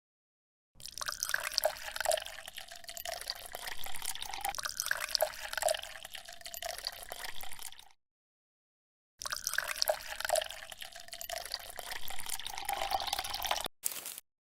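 Liquid pouring and splashing with small drips, in two stretches broken by an abrupt cut to dead silence, then a few short clipped bits near the end.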